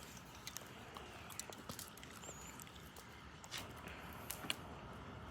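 Campfire burning faintly: irregular sharp pops and snaps of burning wood over a low hiss.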